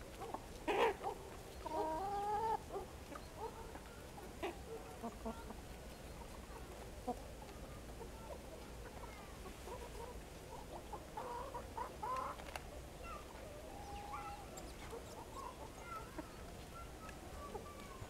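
Birds calling: one sharp call about a second in, then a short run of low, pitched calls, and more scattered calls later on.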